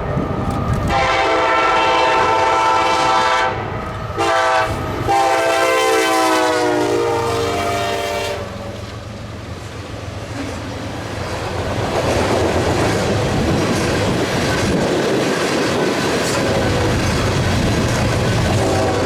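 Diesel freight locomotive's multi-chime air horn blowing a long chord with a short break, its pitch dropping as it passes. Then comes the rumble and wheel clatter of the freight train rolling by, and a horn sounds again near the end.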